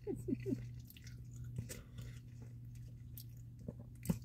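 A person chewing and biting French fries close to the microphone, with soft mouth clicks, over a steady low hum. A few short hummed sounds from the eater come in the first half second.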